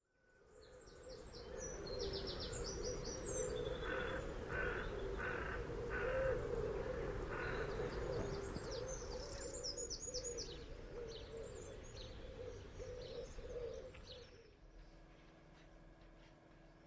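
Birds chirping and singing, with a run of repeated call notes, over a low wavering hum. It fades in at the start and drops away sharply a couple of seconds before the end.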